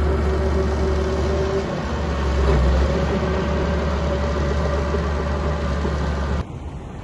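Small bulldozer's engine running steadily with a deep low rumble. It cuts off suddenly about six seconds in, leaving a quieter, even wind-like hiss.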